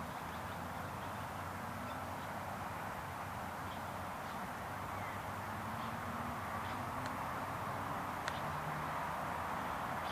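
Steady outdoor background hiss, with a few faint ticks and one sharp click about eight seconds in.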